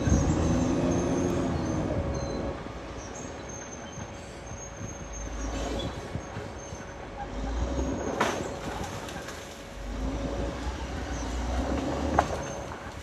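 Caterpillar D6R XL crawler bulldozer at work: its diesel engine rises and falls with the load, over a steady squeal from the steel tracks. There are sharp clanks about two-thirds of the way in and again near the end.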